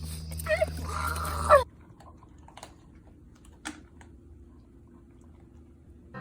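A Shiba Inu puppy whining in high-pitched, excited greeting, cut off suddenly after about a second and a half; then a few faint clicks and taps.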